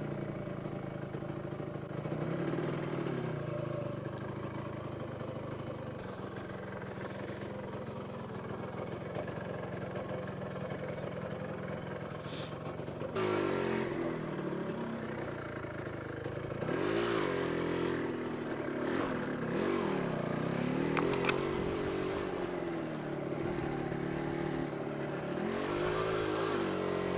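Yamaha RZX two-stroke motorcycle engine running at a steady low pitch, then from about halfway through revving up and down several times.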